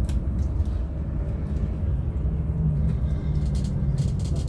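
Hino RM 280 coach on the move: a steady low engine drone and road rumble.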